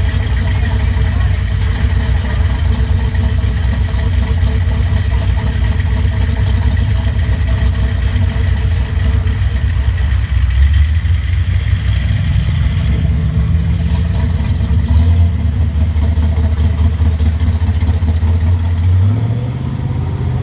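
Car engine running loud and low, its pitch stepping up and down a few times as the revs change, rising again near the end.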